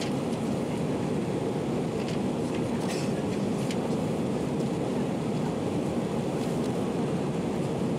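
Steady cabin noise of an Airbus A319 in flight heard from a window seat: an even, low rush of engine and airflow, with a few faint clicks about three seconds in.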